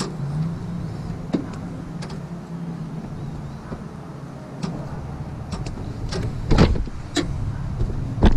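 Car engine running steadily, with several sharp knocks in the last couple of seconds.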